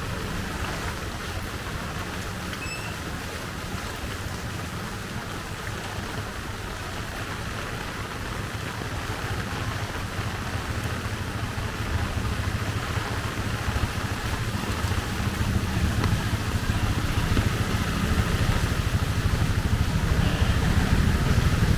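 Steady rain with a low traffic rumble that grows louder over the second half.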